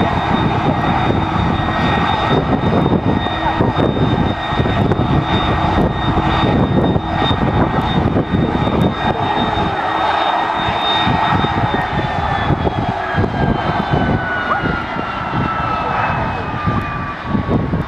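Airliner engines running loudly, with a heavy rumble and a steady high whine. About two-thirds of the way through, the whine starts falling steadily in pitch as the aircraft passes by.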